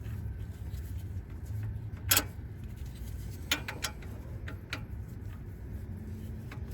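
Scattered light clicks and knocks of tools and exhaust hardware being handled: one sharper click about two seconds in, a quick cluster of clicks a little later and a few softer ones after that, over a low hum.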